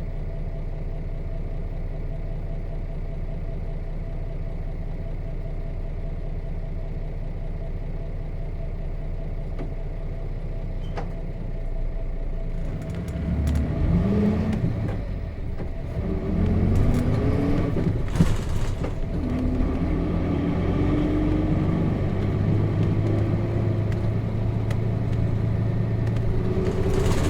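Nissan Diesel KC-RM211GSN bus's FE6 inline-six diesel engine idling steadily, then revving up about twelve seconds in as the bus pulls away, the pitch climbing, dropping at the gear changes of its manual gearbox and climbing again before settling into a steady run.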